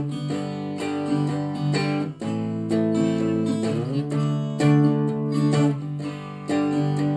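Instrumental break of a folk song played on a cigar box guitar and a four-string tenor guitar strung as a baritone ukulele: strummed chords in a steady rhythm, with no singing and a chord change about two seconds in.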